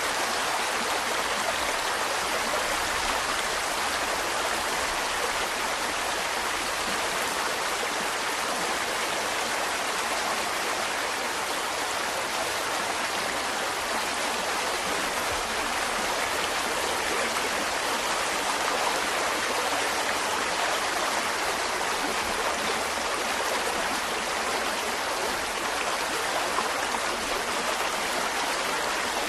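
Mountain stream running over rocks: a steady, even rush of flowing water with no let-up.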